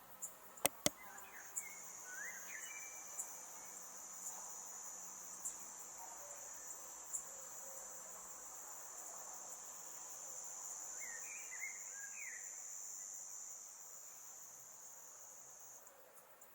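Faint, steady high-pitched insect trill that starts about a second in and stops near the end, with a few faint chirps and some sharp clicks near the start.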